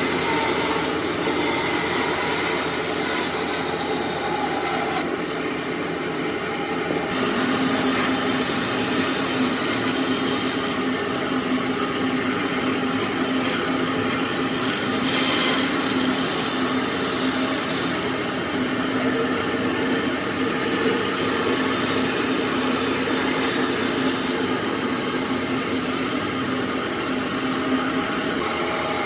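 Electric power tool running steadily with a constant motor hum while working wood, its abrasive or cutting contact giving a continuous rasping noise.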